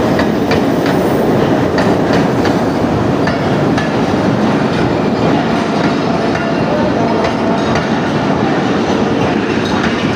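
Train running on the rails: a steady rumble with irregular sharp clicks of the wheels passing over rail joints.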